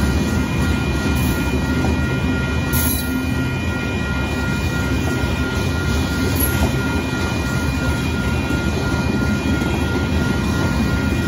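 Union Pacific freight train's gravel hopper cars rolling steadily past: a continuous heavy rumble of steel wheels on rail, with a faint steady high whine over it.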